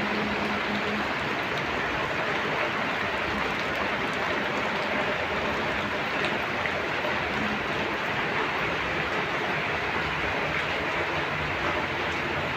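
Heavy rain falling, a steady even hiss that holds at one level.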